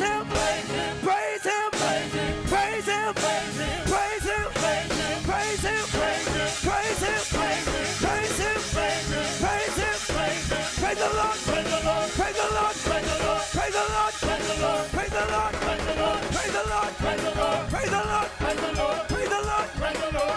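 Up-tempo gospel praise music played live by a church band, with singing over a fast, steady drum beat.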